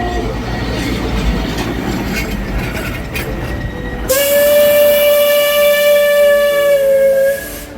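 Alishan No. 31 Shay geared steam locomotive: a low steady rumble from the running train, then about four seconds in a loud, hissing steam-whistle blast on one steady pitch, held for about three seconds before it cuts off.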